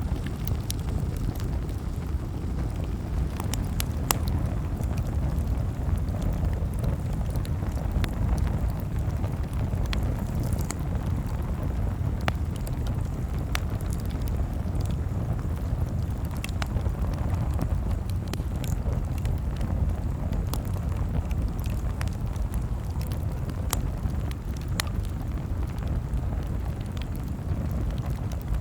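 Campfire crackling: scattered sharp pops and snaps at irregular intervals over a steady low rumble.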